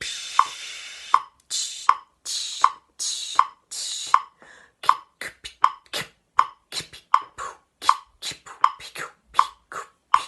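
Metronome ticking steadily at about 80 beats a minute while a voice improvises unpitched mouth sounds in time with it: hissing breath noises over the first few beats, then quick tongue clicks and pops between the ticks, like beatboxing.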